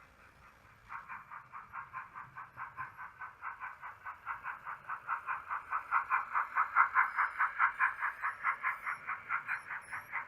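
Model steam locomotive sound decoder playing rapid, regular exhaust chuffs through its small onboard speaker, for a Bachmann 00 gauge BR Standard Class 4 tank engine under way. The chuffing starts about a second in and grows louder, peaking past the middle.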